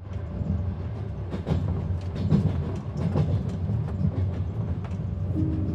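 Inside a moving train carriage: a steady low rumble with irregular clicks and knocks from the wheels and car body running over the track. Music begins just before the end.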